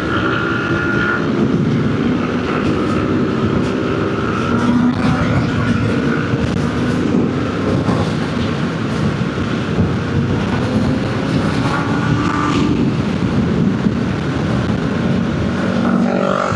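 A vehicle engine running on the road, its pitch slowly rising and falling over a steady rumble of wind and road noise.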